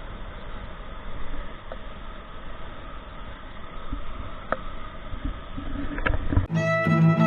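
A steady noisy rumble with a few faint clicks. About six and a half seconds in, music with violin begins.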